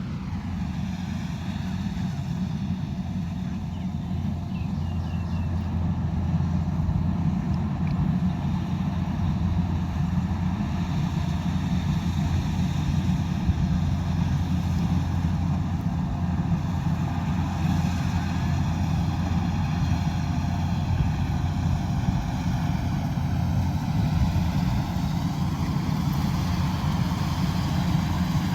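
Combine harvester running steadily, a deep, even engine drone.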